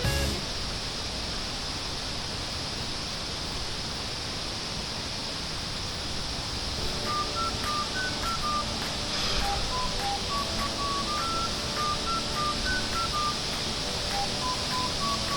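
Steady driving noise inside a moving car. About seven seconds in, a simple melody of clear single notes starts over it, one note after another.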